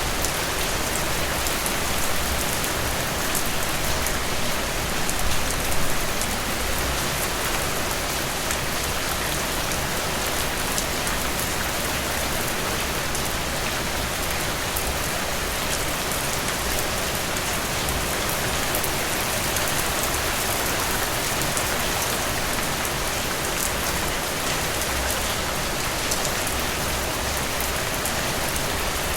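Steady rain falling through trees, a dense even hiss with fine pattering drops.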